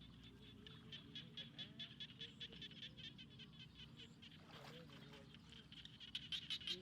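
Frogs calling: a rapid, even train of short croaks, about seven a second, growing louder near the end.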